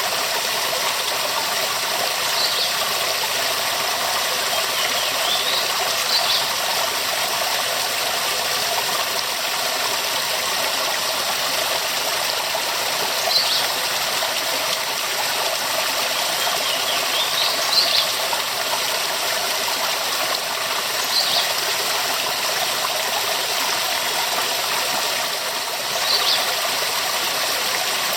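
Waterfall: a steady rush of falling water, with a few brief high rising sounds every few seconds.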